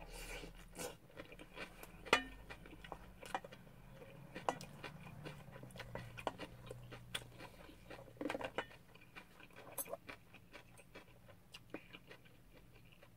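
Chewing a mouthful of fried rice, with scattered light clicks and scrapes of a wooden spoon against a stainless steel bowl.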